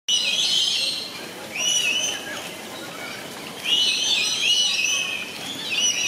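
Birds calling: bursts of high, whistled chirping phrases with notes that rise and fall, repeating about every two seconds.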